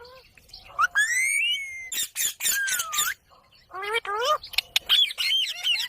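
Indian ringneck parakeet chattering in high-pitched, speech-like calls. There is a rising whistle about a second in, a louder call with a falling-then-rising note around the middle, then a quick run of short up-and-down notes near the end.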